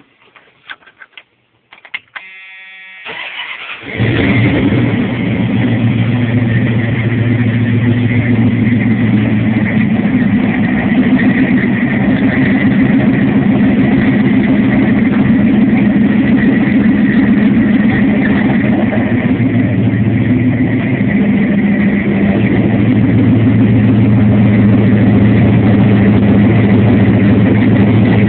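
1993 Dodge Ram pickup engine being started: a few clicks, a brief cranking whine, then the engine catches about four seconds in and settles into a steady idle.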